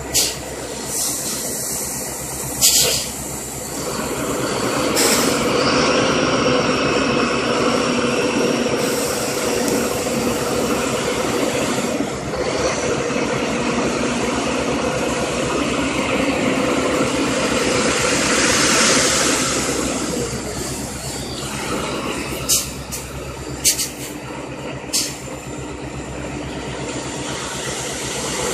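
Dump truck engine running under way, getting louder about four seconds in and holding steady, with a few short sharp bursts of hiss early and near the end.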